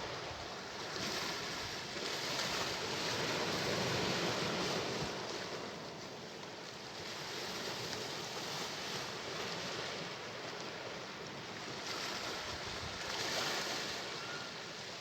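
Sea waves washing onto the shore, swelling twice as waves break and then receding into a steady wash.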